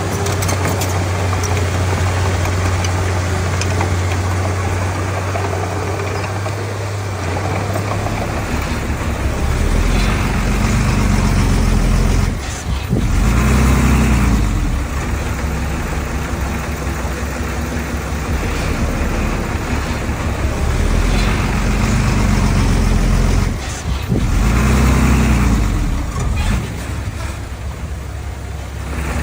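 Heavy diesel engine of earthmoving machinery working under load. It runs steadily, changes note about a quarter of the way in, then twice briefly drops away and revs back up with a rising pitch, around the middle and again later.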